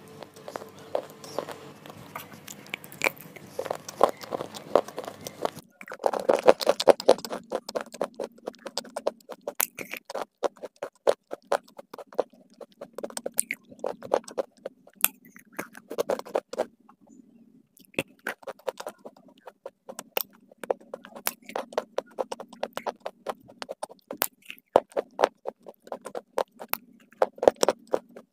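Close-miked crunching and chewing of brittle slate-pencil and shale pieces, a rapid, irregular string of sharp crunches. A cut a little under six seconds in changes the background hum.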